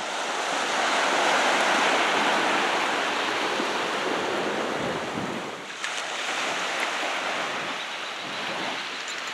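Steady rushing of waves and surf, easing briefly about five and a half seconds in.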